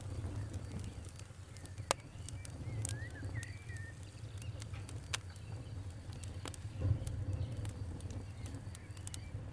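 Fire crackling: irregular sharp pops and snaps over a low steady rumble, the loudest pop about two seconds in.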